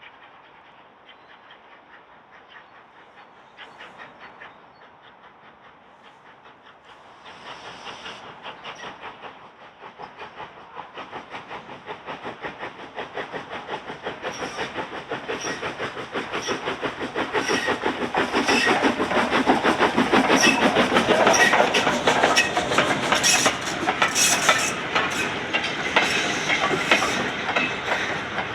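A train approaching and passing, its wheels clicking rapidly over the rail joints. It is faint at first, grows steadily louder from about a quarter of the way in, and is loudest in the last third.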